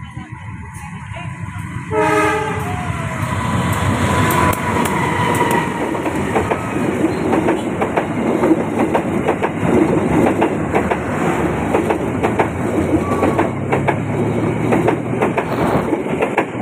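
Diesel-hauled passenger train passing close by. The locomotive's horn sounds once, briefly, about two seconds in. Then comes the engine rumble and the wheels clicking over the rail joints as a long rake of coaches rolls past; the clatter drops away at the very end.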